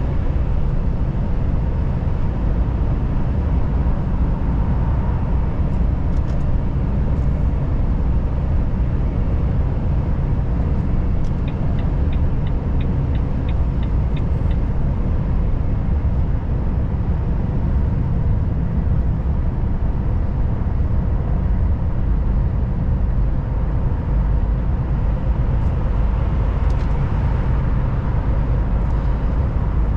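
Volvo FH540 truck's 13-litre straight-six diesel and tyre and road noise heard from inside the cab, a steady low drone. About halfway through comes a short run of light, evenly spaced ticks, roughly three a second.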